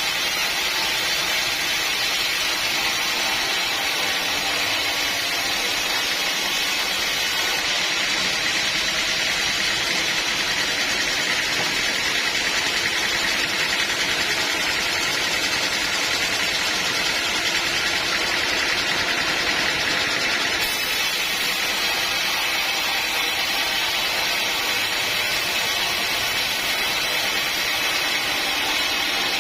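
Sawmill running steadily, its blade cutting through a teak log, a continuous even machine noise with a strong high hiss.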